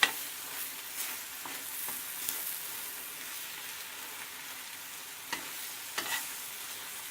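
Chicken and spinach curry sizzling steadily in a frying pan, with a few light clicks of a utensil stirring against the pan.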